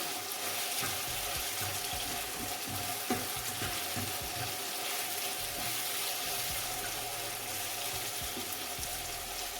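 Chicken and onion frying in hot oil in a metal pot: a steady sizzle, with a small click about three seconds in.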